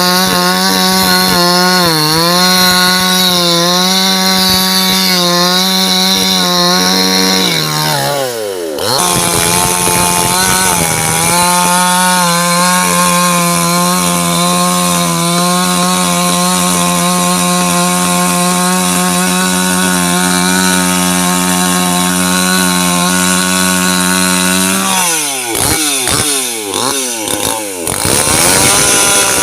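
Two-stroke chainsaw running at high revs through the cut. Its pitch sags and recovers about eight seconds in, and it drops and picks up several times near the end.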